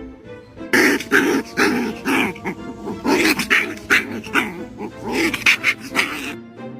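A dog giving a rapid, loud run of barking and growling noises, starting just under a second in and stopping abruptly near the end, over background music.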